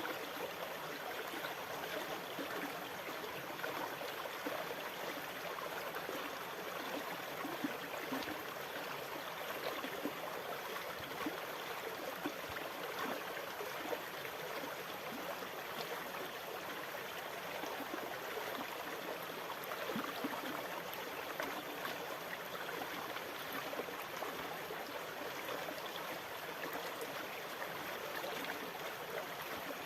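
Water rushing and trickling steadily, with fine crackling throughout and no rise and fall of breaking waves.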